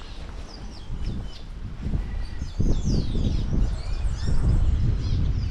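Several birds chirping and calling, a quick run of short rising and falling chirps, over a steady low rumble on the microphone.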